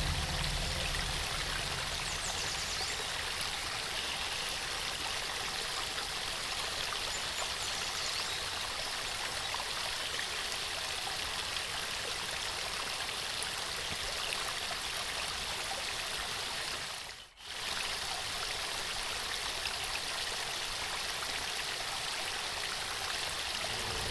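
Waterfall rushing in a steady, even hiss of falling water, with a brief dropout almost to silence about seventeen seconds in.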